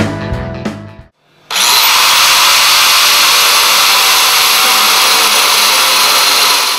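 A hand-held power tool, from the handlebar fabrication work, spinning up about a second and a half in with a brief rising whine and then running steadily at high speed, loud. Intro music plays briefly before it.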